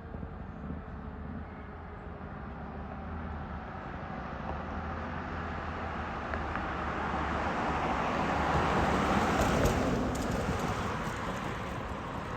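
Fire engine driving past on the road: its engine and tyre noise grows steadily louder, peaks about three-quarters of the way through, then fades away.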